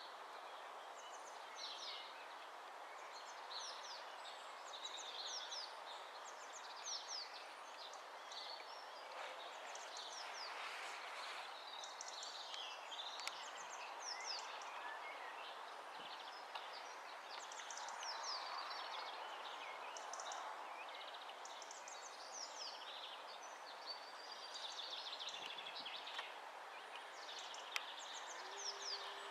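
Early-morning birdsong: several small birds chirping and trilling over a faint, steady background hiss of outdoor ambience. A faint low steady tone starts just before the end.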